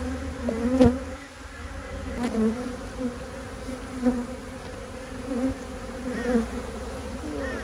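Honeybees buzzing around an opened hive: a steady swarming hum, with individual bees swooping close past and bending the pitch up and down. A single light knock comes just under a second in.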